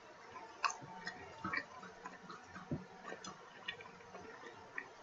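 Close-up chewing of a bite of pizza: faint, irregular soft clicks and smacks from the mouth.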